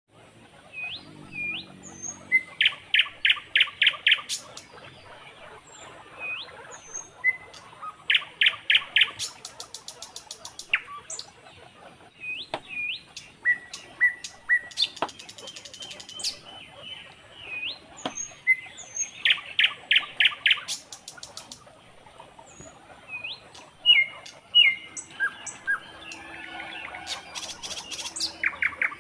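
Small birds chirping and twittering, with short rising calls and quick runs of repeated chirps.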